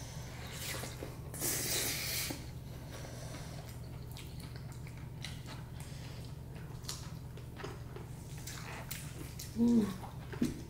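Close-up eating sounds: wet chewing, smacking and squishy clicks of food being eaten, over a steady low hum. A louder, noisy burst comes about one and a half seconds in, and a short murmur of voice near the end.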